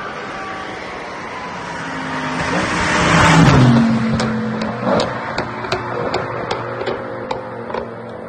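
A car drives past, its exhaust note swelling to a peak about three seconds in and dropping in pitch as it goes by, followed by a string of sharp exhaust pops and crackles on the overrun.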